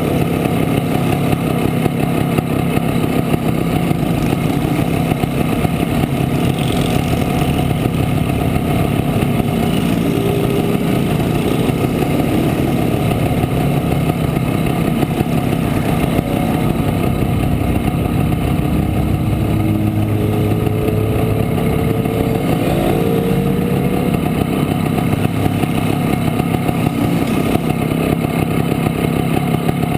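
1967 Montesa Impala Comando 175 cc two-stroke single-cylinder motorcycle engine running under way. The engine note rises in pitch a few times as it pulls, most clearly about two-thirds of the way through.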